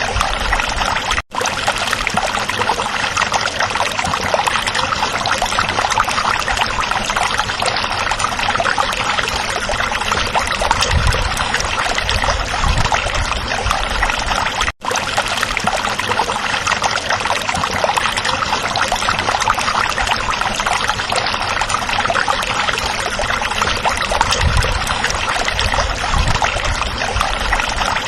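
Stream water running and babbling over rocks, a steady dense rush. It cuts out for an instant twice, about a second in and about halfway through.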